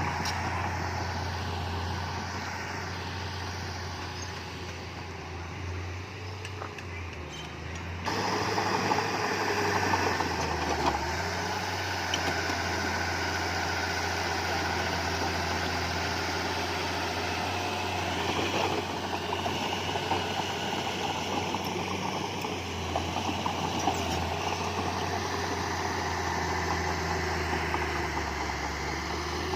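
Heavy diesel earthmoving machinery running steadily with a low hum. About eight seconds in, the sound jumps suddenly louder and fuller and stays that way.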